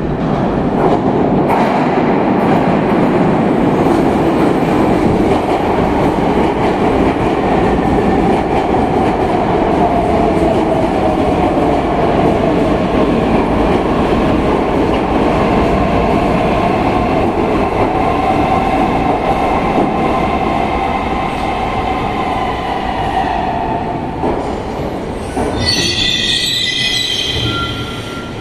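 Saint Petersburg metro train arriving at a station: a loud running rumble with a wavering whine as it comes in and slows, then high-pitched wheel and brake squealing near the end as it draws to a stop.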